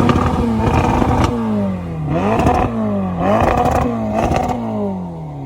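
Car engine being revved in several quick blips, its pitch rising sharply and then sliding back down each time, with sharp exhaust crackles between the blips. It fades toward the end.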